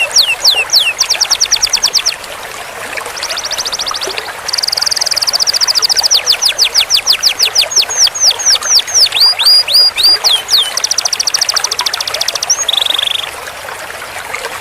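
Canary singing: fast series of falling whistled notes alternating with rapid rolling trills, including a long, loud roll a few seconds in. The song changes phrase every second or two and turns briefly lower and quieter near the end.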